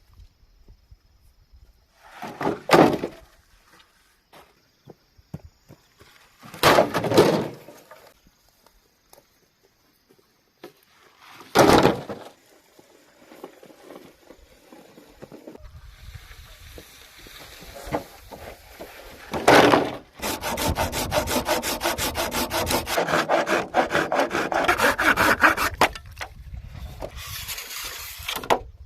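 Bamboo being worked by hand: four separate loud knocks or scrapes a few seconds apart, then a long stretch of fast, steady sawing that stops sharply near the end.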